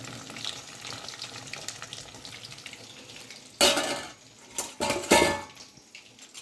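Chicken deep-frying in hot oil, a steady sizzle and crackle. About three and a half seconds in and again around five seconds, a utensil knocks loudly against the metal pan and rings.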